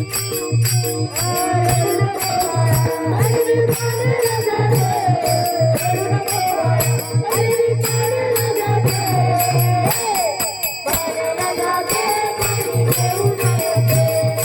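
A boy singing a held, gliding melody over music with a fast, even jingling rhythm and a low pulsing beat; the beat drops out briefly about ten seconds in.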